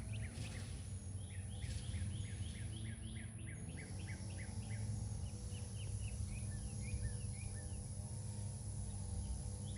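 A bird calling in a fast series of short chirps, about four to five a second, over a steady low background rumble.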